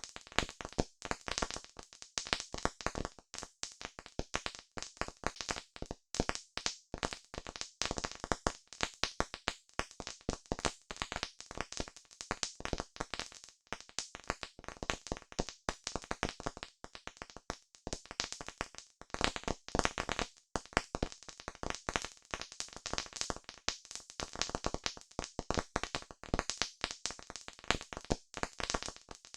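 Campfire crackling, a dense, irregular stream of sharp pops and snaps from burning wood.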